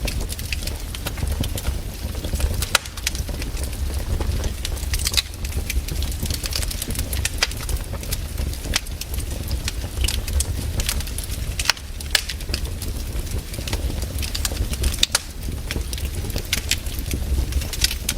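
Wood fire crackling in a fireplace: frequent, irregular sharp snaps and pops over a steady low rumble.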